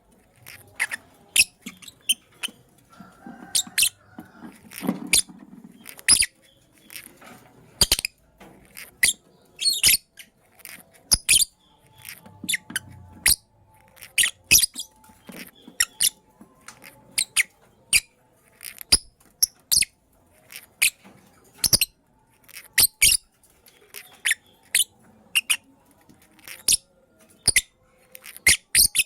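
Lovebirds chirping: a steady string of short, sharp, high-pitched chirps, about one or two a second.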